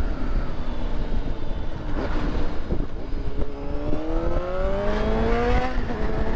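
Vehicle engine accelerating, its pitch rising for a couple of seconds and then dropping at a gear change near the end, over a steady low rumble.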